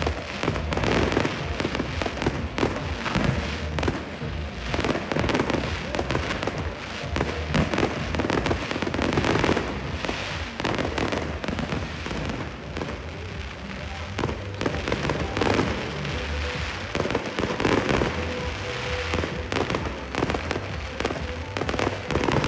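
Aerial fireworks display going off continuously: many shells bursting in quick succession, bangs overlapping with crackling, with music playing underneath.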